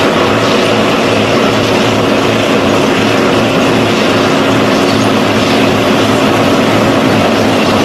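Tractor engine running steadily and loudly under load, with no change in pitch.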